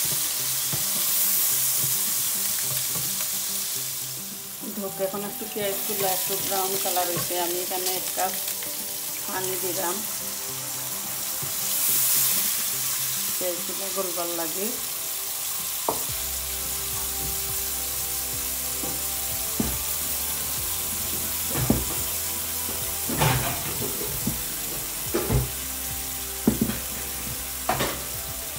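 Food frying in hot oil in a pan, with a steady sizzle. In the second half a spoon or spatula stirs it, knocking against the pan several times.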